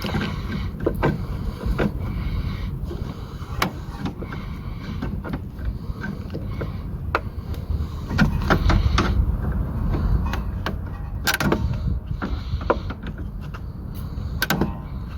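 Hand tools clicking and knocking against metal fittings while fuel lines on a diesel injection pump are being undone: irregular sharp clicks over a low, steady rumble.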